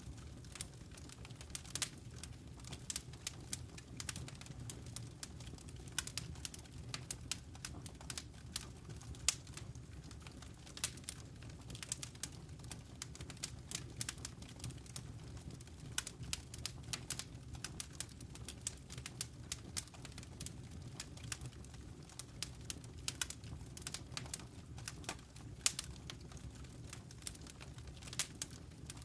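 Wood fire crackling in a fireplace: irregular sharp pops and snaps, several a second, over a low, steady rumble of burning.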